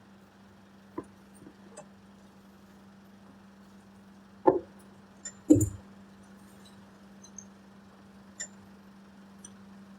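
Occasional short knocks and clinks over a steady low hum, the two loudest about four and a half and five and a half seconds in.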